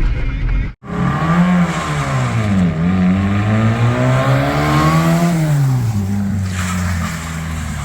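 Yugo's four-cylinder engine under way, its pitch climbing and dropping back twice as it accelerates and shifts, then running steadily. The sound cuts out for an instant about a second in.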